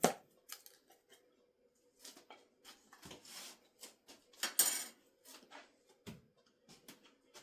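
Clinks, knocks and scrapes of kitchen handling as cans of frozen juice concentrate are emptied into a pot with a utensil. The sounds are scattered and uneven, and the loudest scrape comes about four and a half seconds in.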